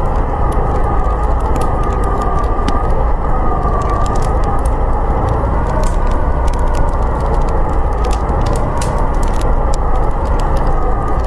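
Blizzard wind howling in a steady, heavy rush with a tone that slowly wavers, while a wood fire crackles with scattered sharp pops.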